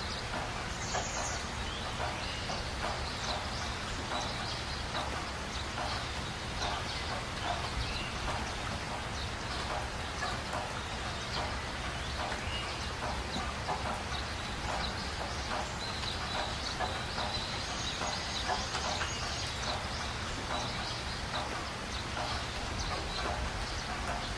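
Birds calling: many short, quick calls over a low steady rumble.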